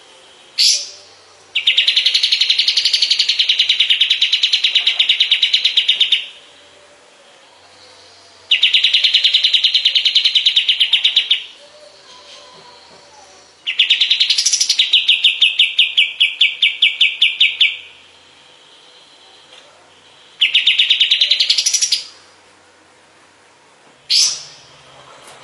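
Kapas tembak bird singing: four long, rapid, buzzy trills of a few seconds each, with short upward-sweeping notes between them.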